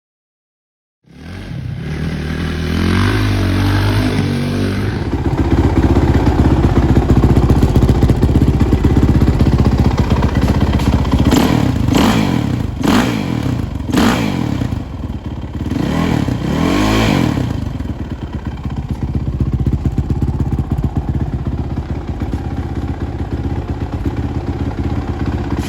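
Suzuki RMZ450 motocross bike's carbureted single-cylinder four-stroke engine running loud. It is revved up and down several times in the middle, with a few sharp cracks. The engine runs erratically, which the owner takes for a lean condition.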